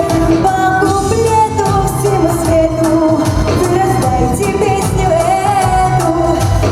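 A young female voice singing a pop song over a backing track with a steady beat.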